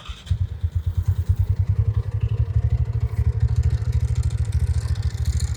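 TVS NTORQ 125 scooter's single-cylinder engine starting and then idling with a fast, even pulsing, together with a rattle from the fan side. The owner puts the rattle down to a loose one-way clutch nut.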